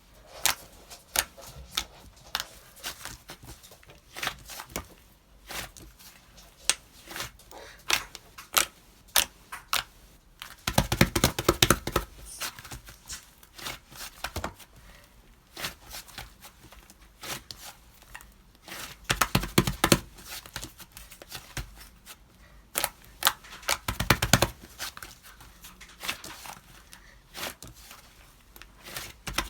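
White slime being squished and pressed by hand, giving irregular sticky clicks and pops, with denser bursts of crackling about a third of the way in, around two-thirds in and once more shortly after.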